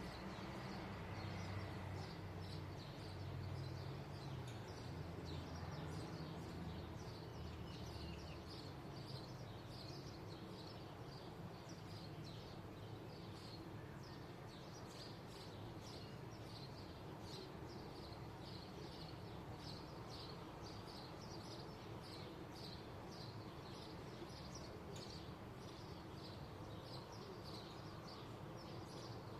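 Small birds chirping: a steady string of short, high chirps, one or two a second, over a faint low rumble that is a little louder in the first several seconds.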